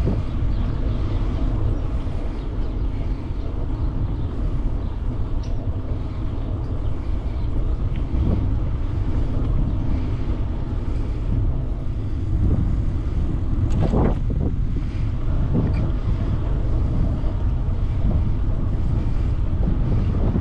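Wind buffeting the microphone of a moving e-bike: a steady low rumble, with a brief louder rush about 14 seconds in.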